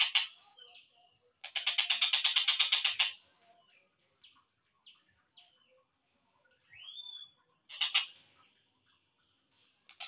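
Slowed-down recording of a tengkek buto kingfisher calling. It gives a rapid run of repeated chattering notes for about a second and a half, then scattered short notes, a single rising whistled note and a brief burst of chatter near the end.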